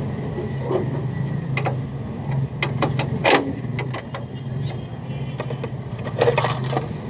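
Sharp metallic clinks and knocks, several of them at irregular intervals, over a steady low hum of a running motor.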